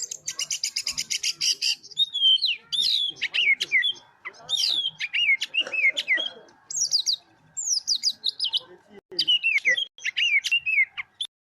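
Oriental magpie-robin (kacer) singing: it opens with a rapid buzzy trill of about ten notes a second, then a long run of loud, varied whistled phrases that mostly fall in pitch.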